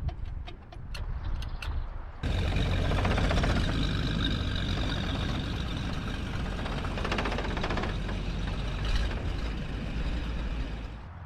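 A few sharp clicks, then a loud, steady mechanical running noise starts abruptly about two seconds in and carries on, with a stretch of rapid rattling partway through.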